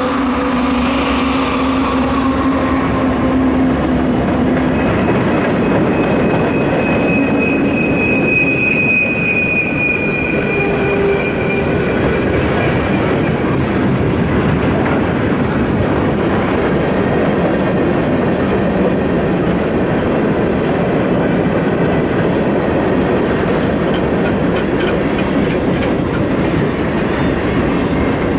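Freight train rolling past. Steady locomotive tones fade over the first few seconds, a high wheel squeal follows from about six to twelve seconds in, then a steady rumble of freight cars with clickety-clack over the rail joints.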